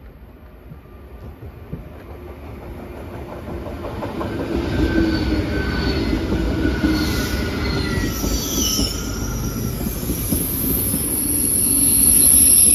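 SBB ETR610 electric high-speed train pulling into the station and rolling slowly past alongside the platform. The rumble of its running gear grows louder as it draws near, with thin high squeals from the wheels and brakes as it slows.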